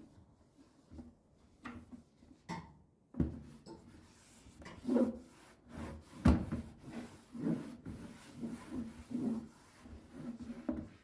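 Household cleaning or tidying sounds: a few knocks, then a run of repeated rubbing strokes against a hard surface.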